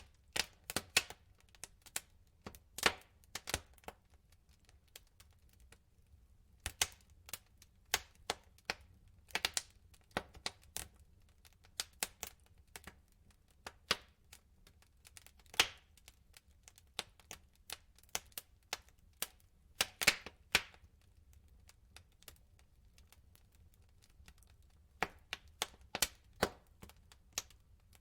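Wood fire in a fireplace crackling, with irregular sharp pops and snaps from the burning logs over a faint low rumble. A few louder pops stand out, and there is a quieter lull past the middle.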